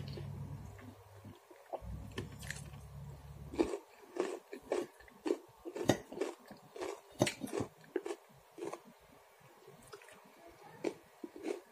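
A person chewing and biting food close to the microphone: a run of crisp crunches and mouth clicks, one or two a second, densest from about four to eight seconds in and thinning out near the end. A low hum is under the first few seconds.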